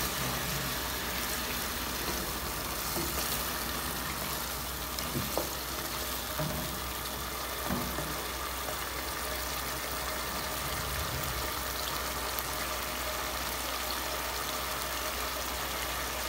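Chopped vegetables frying in oil in a pot: a steady sizzle, with a few light knocks of a wooden spoon stirring against the pot.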